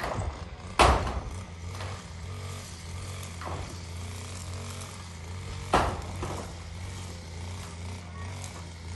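Hammer blows on zinc roofing sheets: two loud, ringing strikes about five seconds apart, with a few lighter knocks between them, over a steady low hum.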